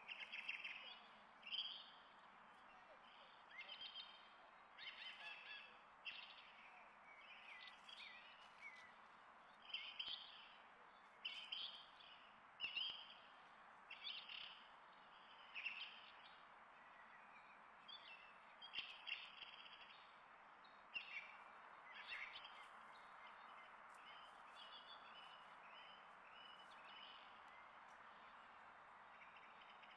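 Songbirds chirping in short high calls, roughly one a second, over a faint steady background hiss. The calls thin out in the last third.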